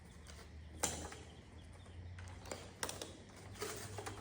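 Faint peeping of a box of baby chicks, with a few sharp knocks over a low steady hum.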